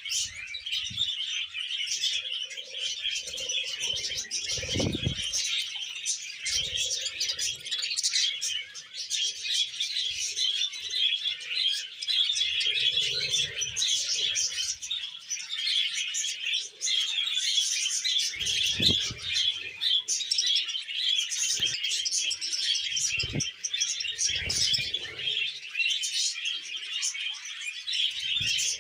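Budgerigar warbling and chattering: a steady, dense stream of twittering chirps, with a few dull thumps along the way.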